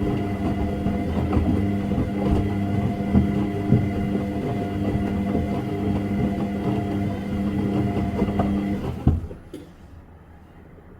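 Washing machine running with a steady motor hum and irregular small knocks, which cuts out abruptly with a thump about nine seconds in, leaving only a faint hiss.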